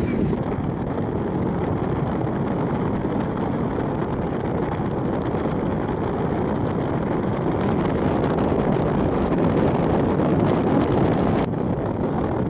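Steady low rumble of a river passenger boat under way, its engine and hull wash mixed with wind buffeting the microphone.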